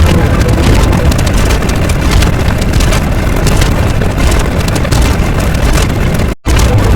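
Loud, continuous low rumbling noise effect, mechanical or explosion-like. It breaks off for a split second about six and a half seconds in as one clip gives way to the next.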